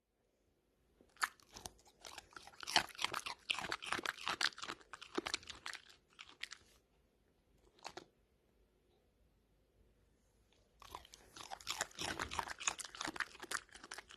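Dachshund crunching and chewing food in quick, dense bites. There are two bouts, the second starting about eleven seconds in after a near-silent pause.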